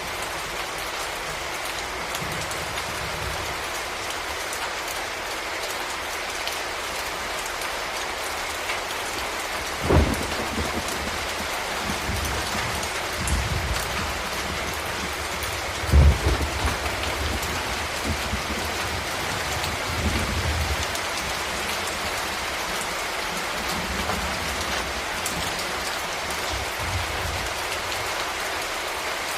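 Steady heavy rain with thunder: a sharp clap about a third of the way in, a louder one a little past halfway, and lower rolling rumbles between and after them.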